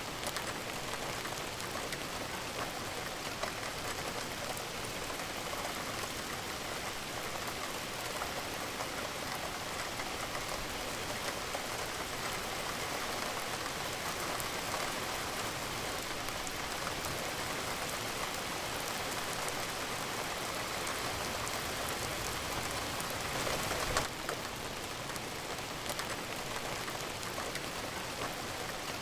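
Steady rain falling, an even dense patter of drops on a surface. About 24 seconds in there is a brief louder swell.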